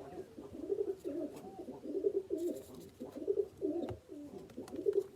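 Domestic pigeons cooing continuously, several calls overlapping, with a single sharp click about four seconds in.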